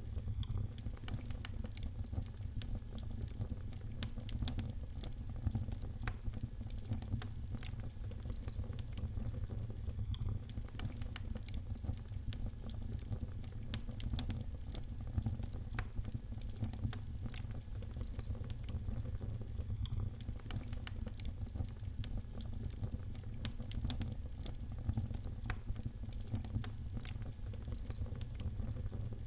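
Wood fire in a fireplace crackling, with many small sharp pops and snaps over a steady low rumble of the flames.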